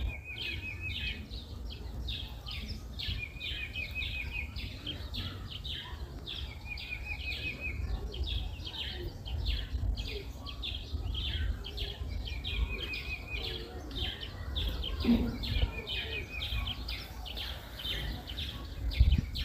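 Wild birds chirping, with one bird repeating a short, rapid trill every two to three seconds, over a steady low rumble.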